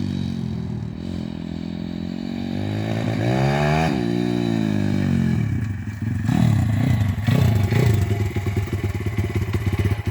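Pit bike engine running, its pitch rising and falling as the throttle is worked, with a revving swell about four seconds in. From about six seconds in it runs louder and choppier.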